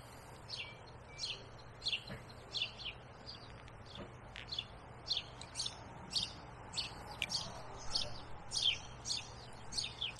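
A small bird chirping over and over, short high chirps about twice a second, with a faint steady low hum underneath.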